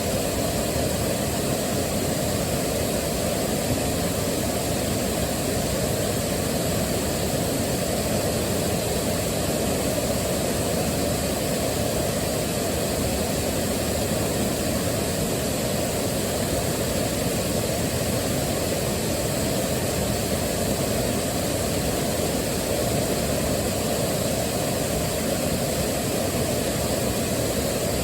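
Waterfall: a deep, even rush of falling water that holds steady without change.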